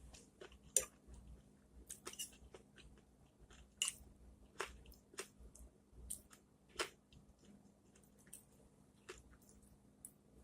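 A person chewing food close to a microphone: irregular soft clicks and mouth sounds, a few of them louder than the rest.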